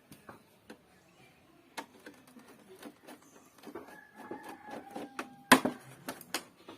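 Objects being handled: irregular light clicks and taps, a brief squeak between about four and five seconds in, then a sharp knock about five and a half seconds in, followed by a few more taps.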